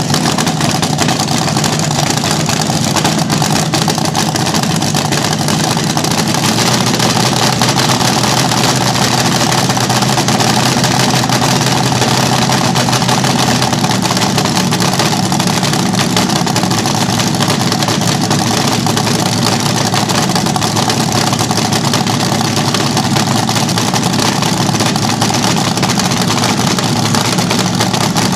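Vintage slingshot dragster's engine running very loud and steady at a fast idle, its engine speed shifting slightly a couple of times.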